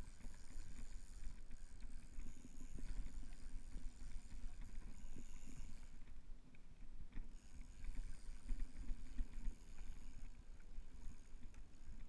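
Water hissing along a moving kayak, over a low rumble of wind and handling on an action-camera microphone. The hiss comes in two long stretches, easing off for a moment at about six seconds.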